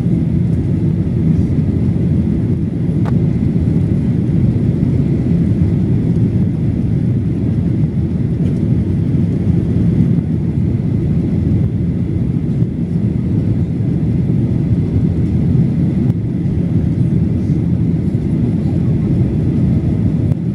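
Steady cabin rumble of a Boeing 737-800 in flight, heard from a window seat: the CFM56-7B turbofans and airflow running evenly, with a faint high steady tone above the deep noise.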